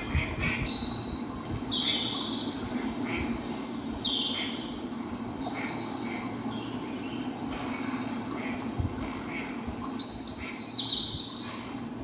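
High bird chirps: short calls, each falling in pitch, repeated irregularly throughout, the loudest about two seconds in, about four seconds in and near the end. A steady low hum lies underneath.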